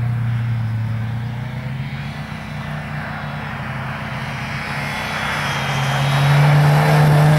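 Volvo saloon's engine running as the car is driven, its pitch dipping a little and then rising as it revs up, louder over the last couple of seconds.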